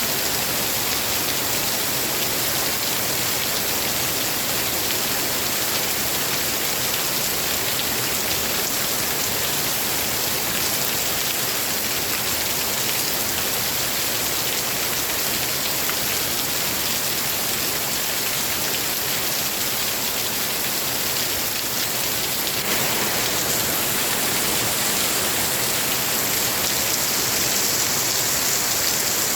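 Steady rainfall, an even hiss of drops that gets a little heavier and brighter about two-thirds of the way through.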